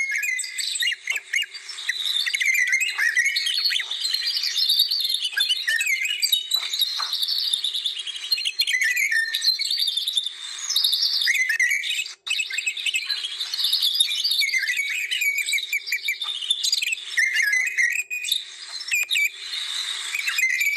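Many birds singing and chirping at once in a dense, continuous chorus of quick high chirps and trills, broken by a momentary gap about twelve seconds in.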